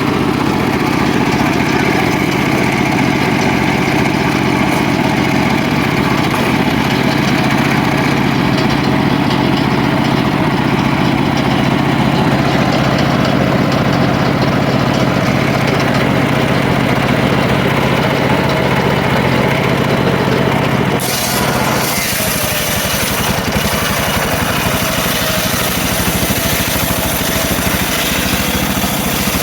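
Engine of a homemade circular sawmill running steadily at a constant pitch. About three-quarters of the way through, the sound changes suddenly to a brighter, noisier running.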